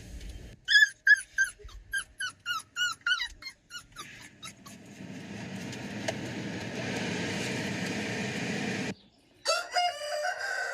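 An animal giving a quick run of short, high calls, each falling in pitch, about three a second, followed by a few seconds of steady noise that cuts off suddenly.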